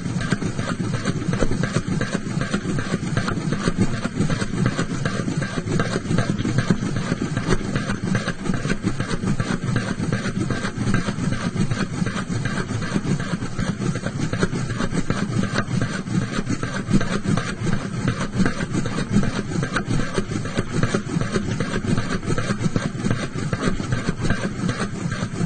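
Looped cartoon rotating, swirling sound effect: a steady, fast fluttering whir that runs on without a break.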